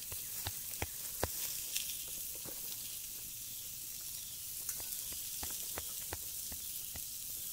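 Burgers sizzling on a steel grill over a wood fire: a steady hiss with scattered sharp pops and crackles.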